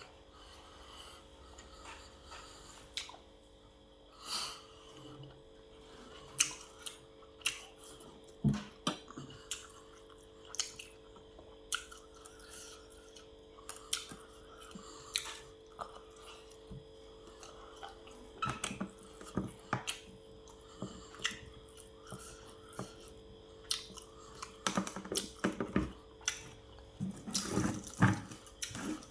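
Close-up eating sounds: chewing with scattered small clicks and taps, over a faint steady hum.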